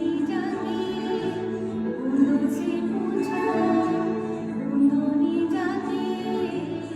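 A small group of mixed voices, mostly women, singing a song together over a steady instrumental accompaniment.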